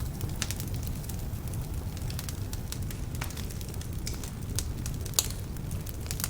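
Wood fire burning in a fireplace: a steady low rumble of flame with frequent sharp crackles and pops from the logs, some of them damp, and the loudest pop about five seconds in.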